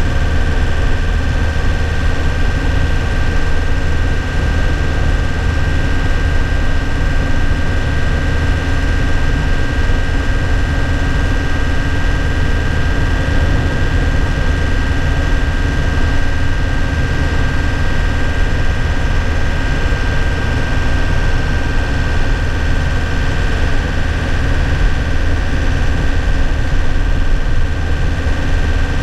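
2001 Nissan Cabstar light truck's engine running steadily, heard from the driver's seat: a low drone with a thin steady whine above it, holding one pitch throughout.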